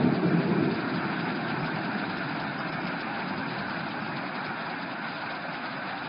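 Steady hiss of heavy rain falling. A low rumble of thunder fades out in the first second.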